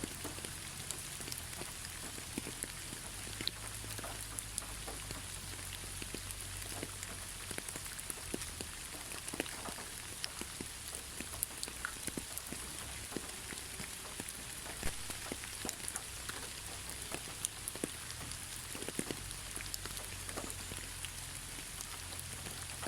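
Steady rain falling, a constant hiss with many separate drops ticking irregularly on a hard surface, over a low rumble.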